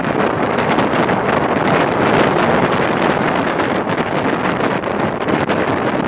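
Wind rushing over the microphone mixed with the steady rumble of a passenger train running along the track, heard from an open window of the rear carriage.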